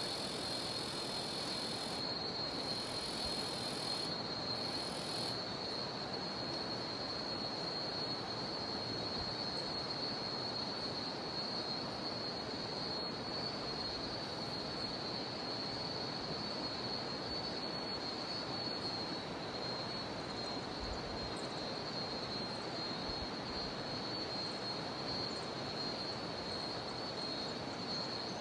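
Cicadas droning steadily on one high pitch over the constant rush of a jungle river. A second, higher insect buzz cuts in and out a few times and stops about five seconds in.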